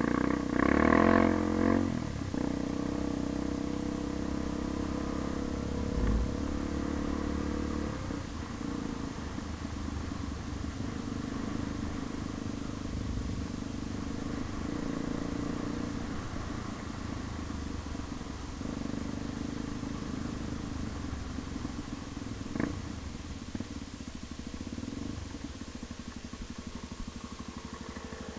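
A vehicle engine running steadily, louder for a moment in the first couple of seconds.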